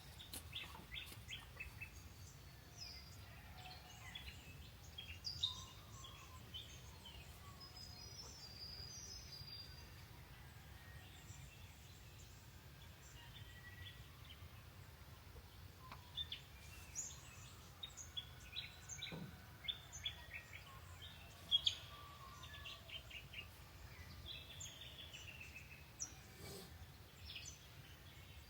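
Small songbirds chirping and trilling in short, scattered calls, faint over a steady low hum.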